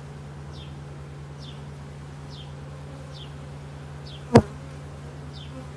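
Honeybees buzzing around an open hive in a steady hum. A single sharp knock sounds about four seconds in, and faint short high chirps repeat about once a second.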